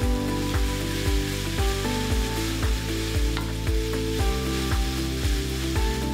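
Kimchi fried rice sizzling in a hot pan as a wooden spoon stirs the rice through, with occasional taps of the spoon, over background music with a steady stepping bass line.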